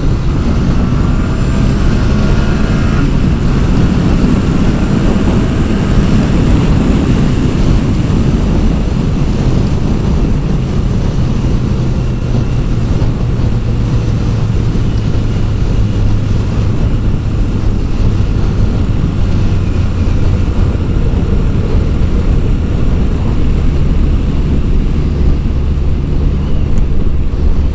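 Motorcycle engine running under way with heavy wind and road noise, its pitch rising over the first few seconds as it accelerates, then holding steady.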